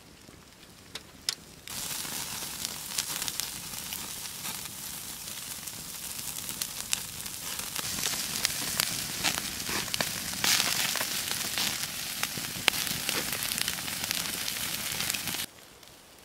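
Food frying: a steady sizzle with scattered crackles and pops. It starts abruptly about two seconds in and cuts off sharply near the end.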